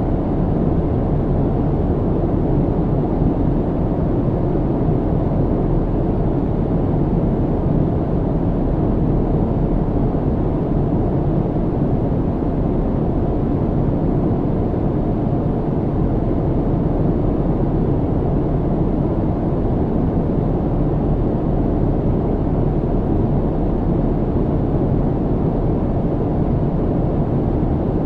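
Airplane cabin noise in flight: a steady, deep, even rush with no breaks or changes.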